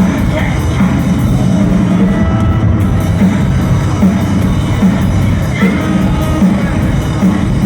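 Loud live rock music from a band on stage, with a steady pulsing beat heavy in the bass.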